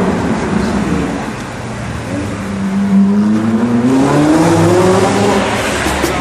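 Sport motorcycle engine accelerating, its note climbing steadily in pitch for about three seconds in the middle.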